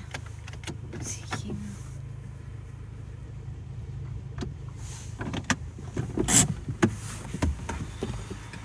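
Car engine idling, heard from inside the cabin as a steady low hum, with scattered clicks and knocks and a short loud rustling burst about six seconds in.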